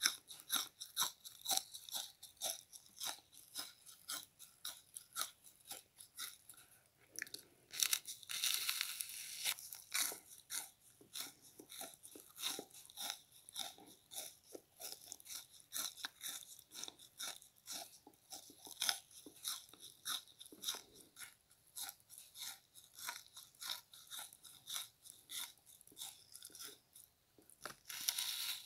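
A frozen bath sponge being bitten and chewed: a steady run of crisp, icy crunches, two or three a second.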